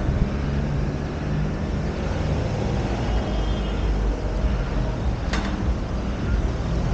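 Steady low rumble of road noise with motor vehicle traffic, and one sharp click about five seconds in.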